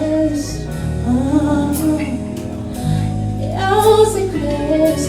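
A song with a woman singing a wordless melody over steady low accompaniment.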